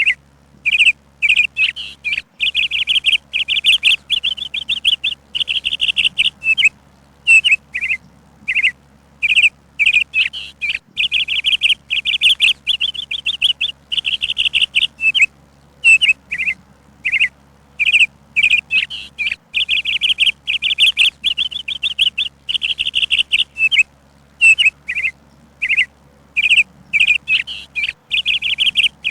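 A songbird singing continuously: short high chirps alternating with rapid trills about a second long, repeating with short gaps between phrases.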